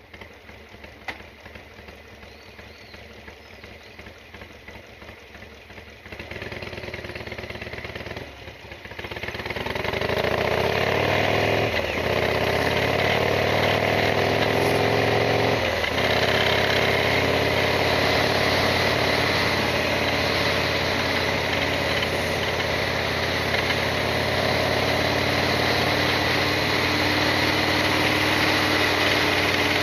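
Harley-Davidson XL1200R Sportster V-twin engine, quiet at first, then louder about six seconds in and much louder about nine seconds in, after which it runs steadily. This bike has an abnormal noise that is still present, which the owner plans to trace by opening the primary side.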